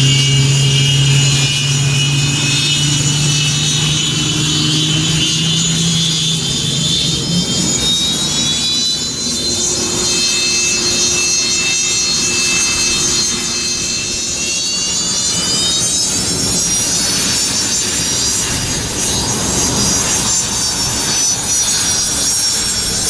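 Aircraft turbine engines running: a low drone that fades over the first several seconds, then a high turbine whine that rises steadily in pitch in the second half, as the engines spool up.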